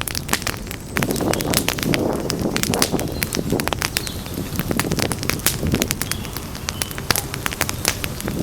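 Campfire crackling with many sharp pops and snaps, over a low, uneven rushing of the burning fire.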